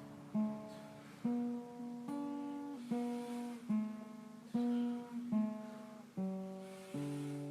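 Acoustic guitar music: strummed chords, a new chord struck a little more often than once a second and left to ring.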